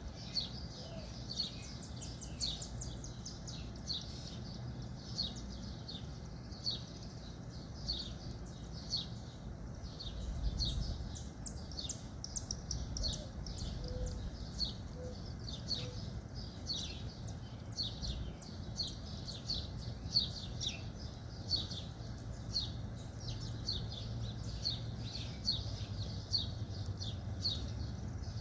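A bird chirping over and over: short, high, downward-sliding chirps about every two-thirds of a second, over a low background rumble.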